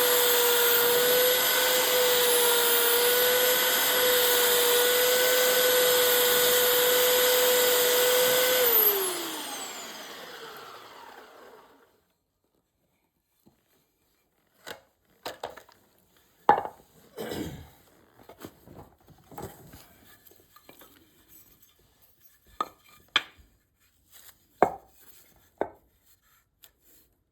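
Electric power tool running at a steady high pitch, switched off about nine seconds in and spinning down with a falling whine. After a short pause come scattered light knocks and taps.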